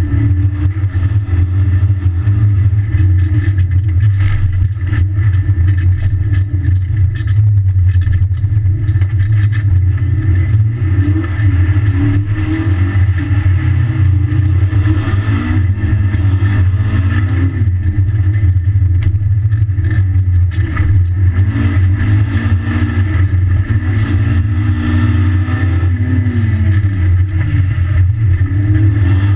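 Mitsubishi Lancer Evolution's turbocharged four-cylinder engine heard from inside the cabin while the car is driven hard on snow and ice: the engine note climbs and drops again and again through acceleration and gear changes over a loud, constant low drone.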